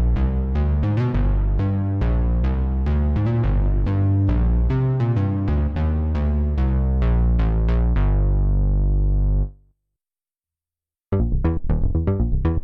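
Waldorf Pulse 2 monophonic analog synthesizer playing a bass sequence preset, a quick run of notes that are each bright at the start and darken fast. The line ends on a held low note about nine and a half seconds in. After about a second and a half of silence, the next preset begins with rapid short plucked notes.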